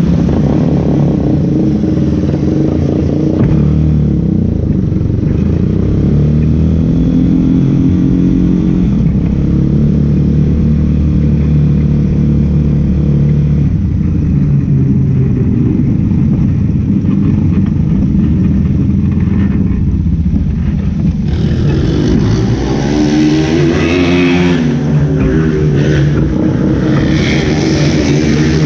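Race car engines running hard, their pitch rising and falling with the throttle. About 21 seconds in, a harsher, higher engine note with bending pitches joins in.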